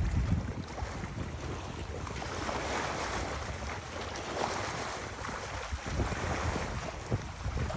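Wind buffeting the microphone in uneven gusts over a steady rush of river water.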